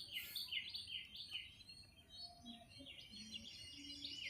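Small birds calling: a quick series of short falling notes, about three a second, then denser chirping from about halfway.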